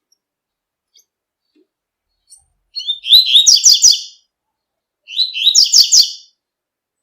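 Double-collared seedeater (coleiro) singing the tui-tui song: two short phrases of quick repeated sliding notes, about three seconds in and again about five seconds in.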